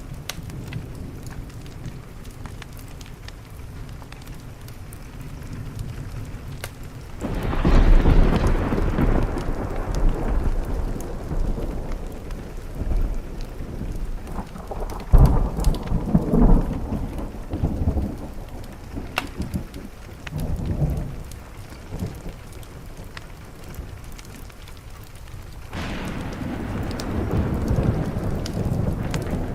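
Steady rain pattering on a window, with a long roll of thunder that breaks in about a quarter of the way through, peaks halfway and dies away, then a second rumble building near the end.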